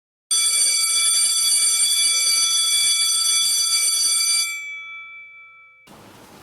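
An intro chime: a bright, bell-like ringing tone with several clashing overtones starts suddenly, holds steady and loud for about four seconds, then dies away, and is cut off near the end.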